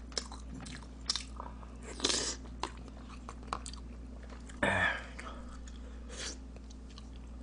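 Close-miked mouth sounds of a person eating: chewing with small wet clicks and smacks. A few short, louder noises come about two seconds in, near five seconds and once more a second later.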